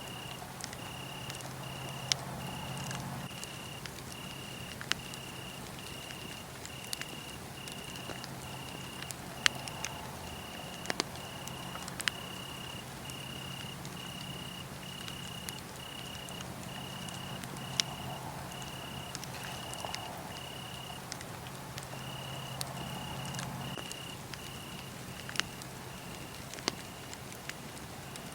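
Wood fire crackling with scattered sharp pops, over a cricket chirping steadily at a little under two chirps a second; the chirping stops briefly about three-quarters of the way through.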